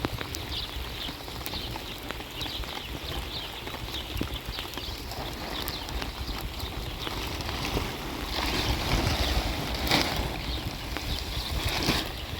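Wind buffeting the microphone during a rainstorm, with rain noise and scattered small ticks and taps. It grows a little louder in the last few seconds.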